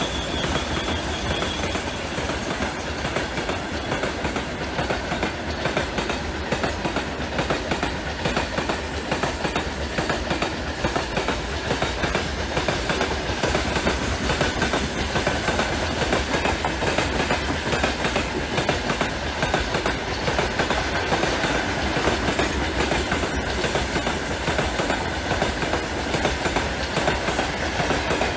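Heavy freight train rolling past at speed: a steady rail rumble with a rapid clickety-clack of wagon wheels over the rail joints and a faint thin whine above it.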